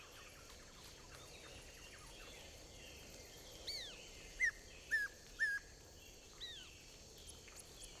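A bird calling: about six short, sharp chirps that rise and then drop in pitch, coming in the second half over a faint outdoor background hiss, the loudest three in quick succession.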